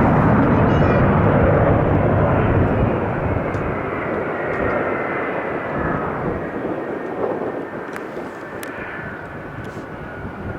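Jet airliner's engines passing by: a loud roar that fades steadily as the aircraft moves away, with a faint whine slowly falling in pitch.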